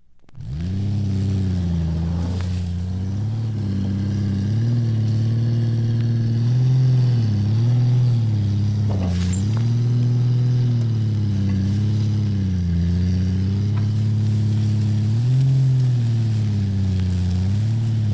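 A motor engine running at low speed, coming in sharply about half a second in; its pitch dips and rises gently every second or two as the throttle changes.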